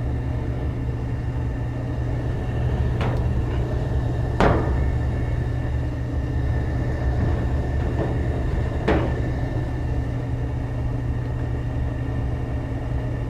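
Gas furnace running with a steady low drone, and four short light knocks, the clearest about four seconds in, as a combustion analyzer probe is worked at a burner opening.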